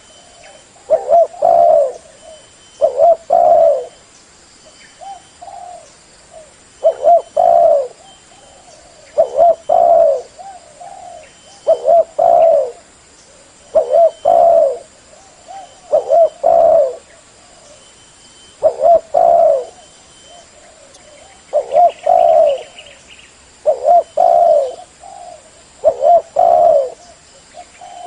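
Spotted dove (terkukur) cooing, a short phrase of several low coos repeated about every two seconds.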